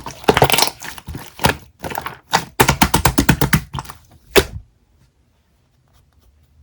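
A rapid, irregular run of sharp clicks and knocks, like tapping or typing on hard objects, stopping abruptly about four and a half seconds in.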